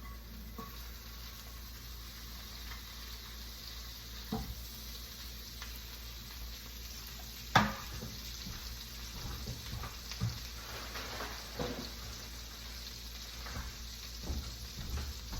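Butter sizzling as it melts in hot chicken grease in a pot, lifting the browned bits off the bottom. A steady hiss with a few short knocks, the loudest about halfway through.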